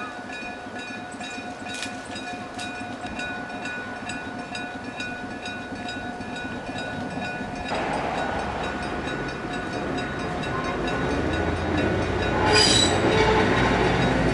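A Meitetsu Tanigumi Line train approaching. Its running noise and low rumble swell from about halfway through and grow louder toward the end, with a brief sharp burst near the end.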